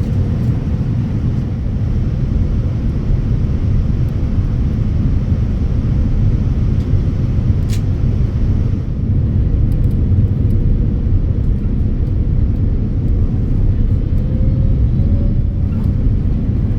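Steady low rumble of a Boeing 787-9 heard inside the cabin, engine and airflow noise, with a single sharp click about eight seconds in.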